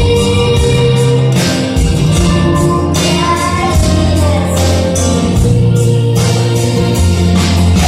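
A young girl singing a pop song with instrumental accompaniment of bass and percussion.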